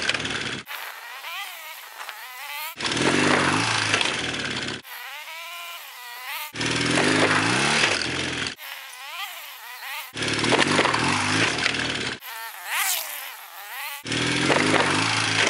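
BMW R100GS Paris-Dakar's air-cooled boxer-twin engine revving over and over, with abrupt cuts about every two seconds between full, close engine sound and thinner revs that rise and fall in pitch.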